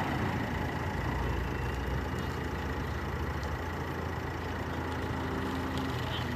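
A motor vehicle engine idling in road traffic: a steady low hum.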